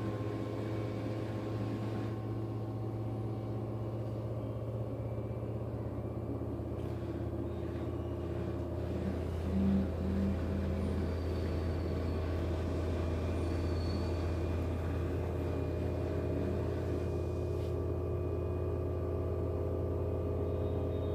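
LG FHV1408ZWP front-loading washing machine in its spin cycle at 1000 rpm, the drum and motor giving a steady low hum, with a brief louder bump about halfway through.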